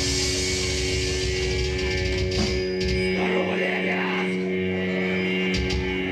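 Amplified rock band playing live, the instruments holding long sustained notes; the low end drops away about three seconds in while the held notes ring on.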